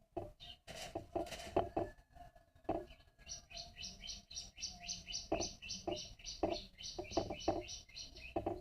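A small bird chirping a quick run of repeated high notes, about four or five a second, starting about three seconds in and lasting some five seconds. Scattered light knocks and clicks sound throughout.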